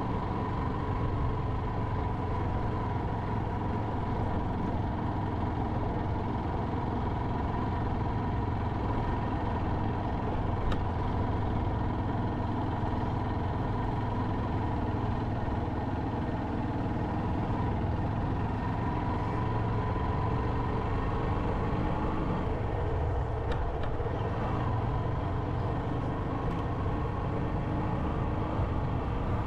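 Motorcycle engine running steadily while riding, with road noise and a thin steady whine that fades out about three-quarters of the way through.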